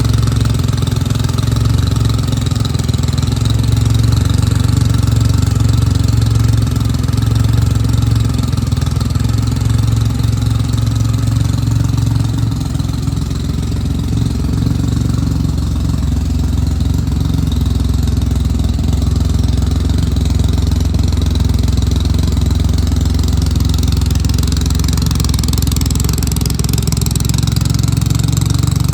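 Triumph Rocket III's big inline three-cylinder engine idling steadily, with a slight dip in loudness about halfway through.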